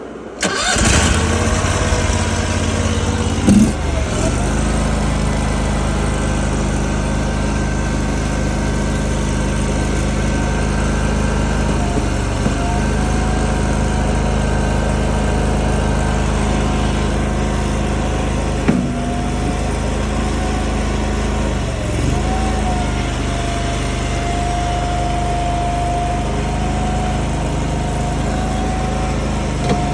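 Small engine of a compact loader-type machine starting up about half a second in and then running steadily, with a few short knocks along the way and a thin whine that rises a little and holds in the second half.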